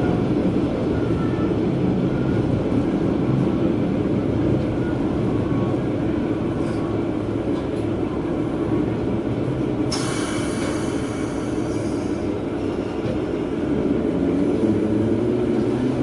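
Diesel railcar running along the line: a steady low rumble of engine and wheels heard from inside the car, with a sudden hiss that starts about ten seconds in and lasts a few seconds.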